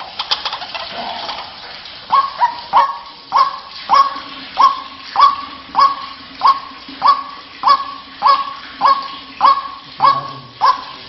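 White-breasted waterhen (ruak-ruak) calling. A quick jumble of notes comes first; then, about two seconds in, a steady series of loud 'kruak' calls follows, roughly one and a half a second, each a sharp note that drops and holds.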